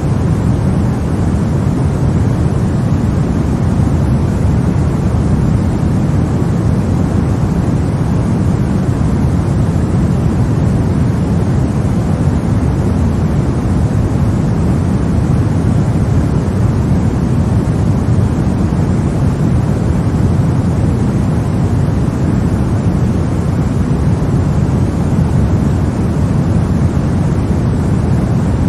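Steady sleep noise for babies: an even, deep rushing hiss, weighted toward the low end, that never changes.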